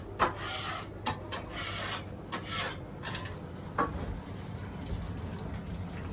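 A run of short scraping, rubbing strokes for about four seconds over a steady low hum, which then goes on alone.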